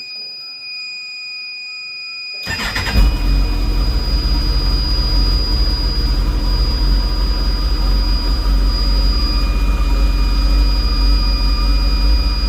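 The 2022 Campagna T-Rex RR's BMW 1649 cc inline-six engine is started about two and a half seconds in: a brief crank, then it catches and settles into a steady idle. A steady high-pitched electronic warning tone sounds throughout.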